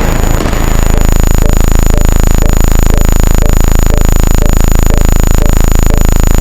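Loud, harsh buzz made of very rapid, evenly repeating clicks, with faint blips about twice a second: a counter's sound effects firing in quick succession.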